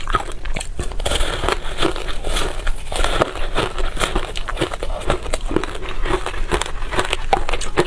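Freezer frost being bitten and chewed: a dense, continuous run of quick crisp crunches and crackles.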